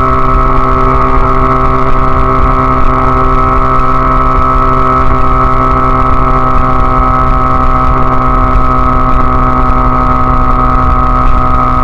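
Honda Rebel CA125's 125 cc twin-cylinder four-stroke engine running steadily at constant revs through an aftermarket BSM/Highway Hawk exhaust.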